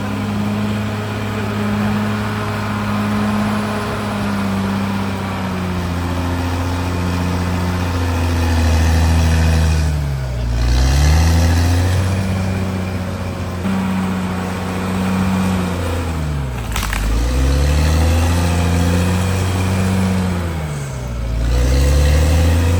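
CAT D6R XL bulldozer's diesel engine running under load, its pitch dipping and recovering three times: about ten seconds in, about seventeen seconds in and near the end.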